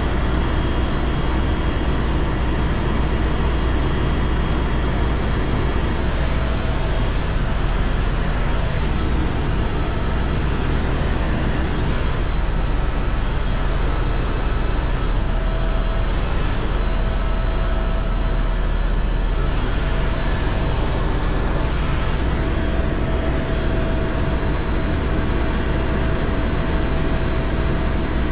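Helicopter engine and rotor noise, a loud steady drone.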